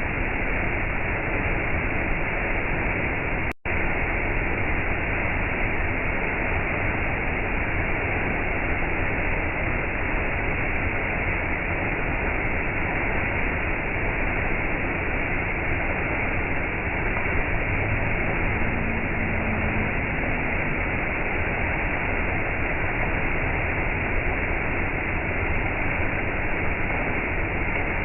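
Waterfall water rushing in a steady, even roar of noise, broken once by a split-second dropout a few seconds in.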